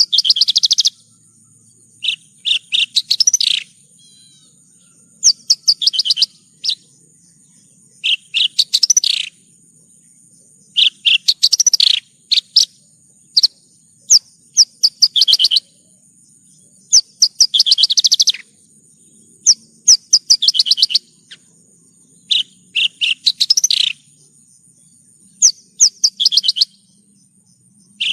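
Javan bush lark (branjangan) singing: short phrases of rapid chirps and trills, repeated every two to three seconds. A steady, thin, high-pitched tone runs underneath.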